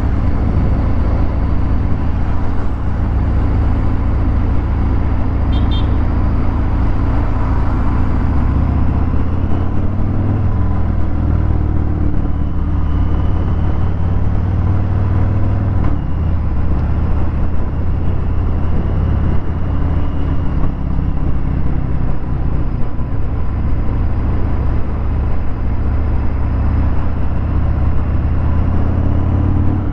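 Harley-Davidson Fat Bob 114's Milwaukee-Eight 114 V-twin running through a Vance & Hines Hi-Output 2-into-1 exhaust while riding, a loud, low-pitched, steady exhaust note with only small rises and falls in engine speed.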